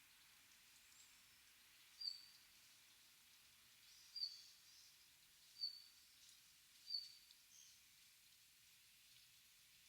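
A small bird giving four short, sharp high call notes a second or two apart, over faint quiet forest background.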